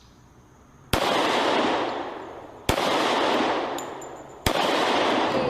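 Three loud, sharp bangs about two seconds apart, each trailing off in a long echo.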